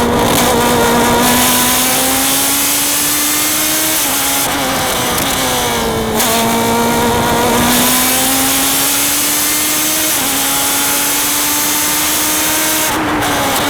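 Race car engine at high revs under load, its pitch climbing slowly and dropping a few times at gear changes or lifts for corners.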